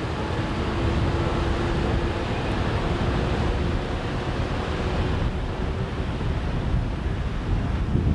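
Wind buffeting the microphone over open water, a dense low rumble with hiss. A faint steady motor hum sits under it and fades out about six seconds in.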